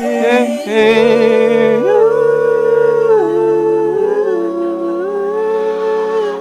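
Music: a wordless voice humming long held notes of a slow melody that steps between pitches, over a low sustained accompaniment.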